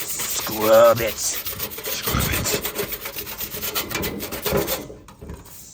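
A brush scrubbing a window air conditioner unit that has been sprayed with cleaner: fast rough back-and-forth rubbing strokes that stop shortly before the end. A short vocal sound from the person scrubbing cuts in about a second in.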